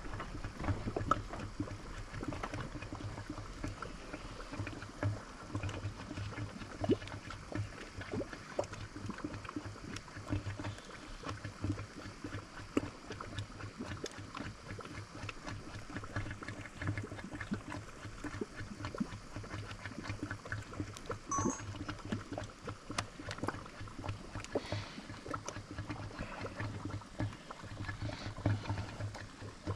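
Bubbling, sloshing liquid with many small irregular pops throughout, over a steady low hum.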